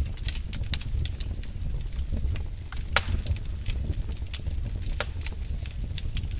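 Wood fire burning in a fireplace, crackling irregularly over a low rumble of flames, with a sharp pop about three seconds in and another about five seconds in.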